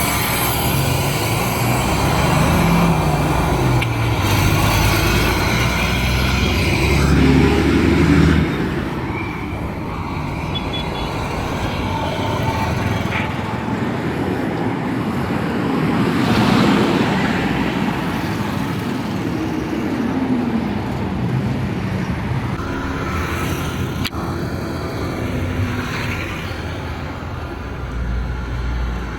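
Street traffic passing close by: a heavy vehicle's engine rumbles loudly for the first eight seconds and then drops away suddenly, followed by a steady wash of road noise with more vehicles going past around the middle and near the end.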